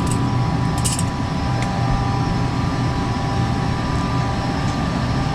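Gas furnace running: a steady low rumble with a faint whine. A few light clinks of tools being put away come in the first couple of seconds.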